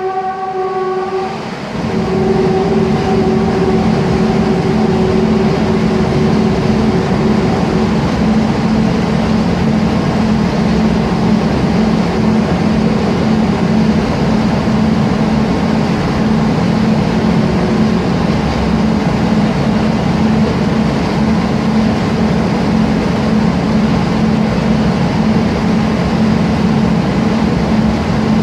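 Train horn ending about a second and a half in, with a weaker held tone that fades out by about eight seconds in. Under both, a train runs past with a loud, steady rumble and a low hum.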